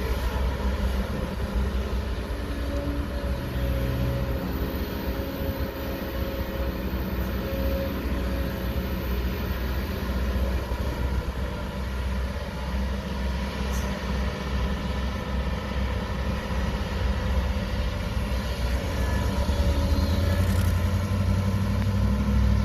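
Heavy diesel machinery running steadily, an excavator and dump truck at work, with the engine rumble growing louder near the end.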